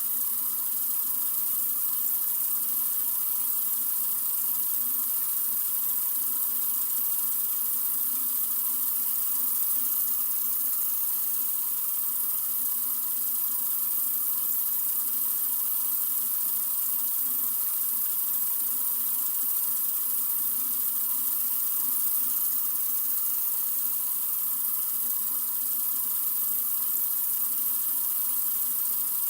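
Sink faucet running in a steady stream: an even, unchanging hiss of flowing water.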